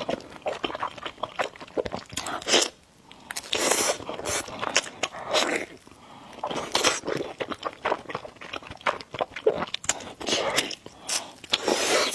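Close-miked eating sounds: a person chewing and biting food, with irregular crisp crunches and mouth noises.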